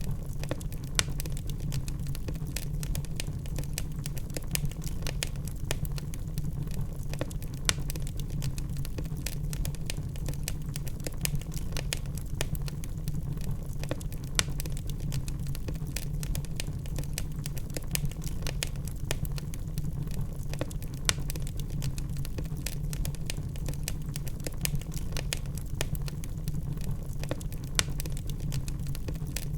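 Log fire crackling: frequent irregular small snaps and pops, a few sharper than the rest, over a steady low rumble of the burning wood.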